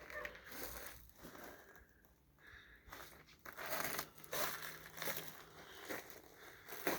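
Irregular crunching and crinkling rustles, with a short lull about two seconds in, then busier again.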